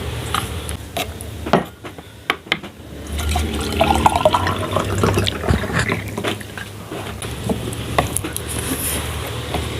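Water being poured to fill a container, running steadily from about three seconds in, after a few sharp clicks and knocks of handling.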